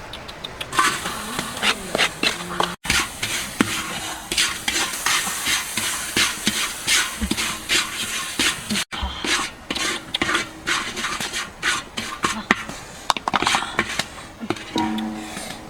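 Repeated short, scratchy scraping strokes, a few a second, broken by two brief cuts.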